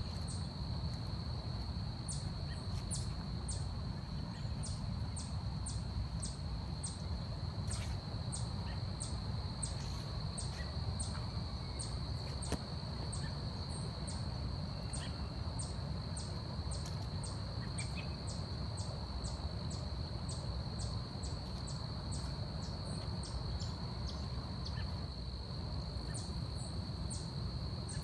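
Forest ambience: a steady high-pitched insect drone, with short high chirps repeating about twice a second that pause briefly near the end, over a low steady rumble.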